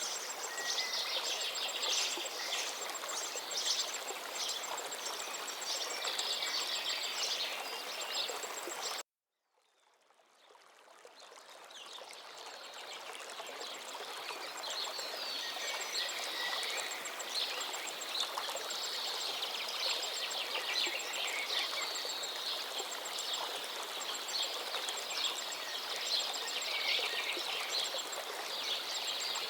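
Many songbirds singing busily over the steady rush of a flowing river. About nine seconds in the sound cuts out suddenly, then fades back in over several seconds.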